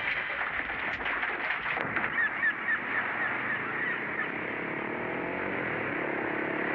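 Short honking bird calls, about four a second for roughly two seconds, over a steady rushing noise.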